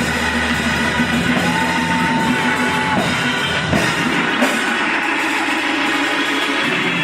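Band music with drums and guitar, with one high note held for about a second and a half.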